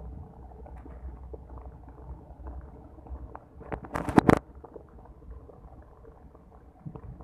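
Heavy rain heard through a wet, muffled phone microphone: a steady low rumble with scattered crackles. About four seconds in comes a quick cluster of loud knocks, the loudest sound.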